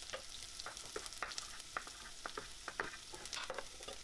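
Diced onion and garlic sizzling in hot oil in a steel pot, with irregular knocks of a knife on a wooden cutting board as ham is cut into small cubes.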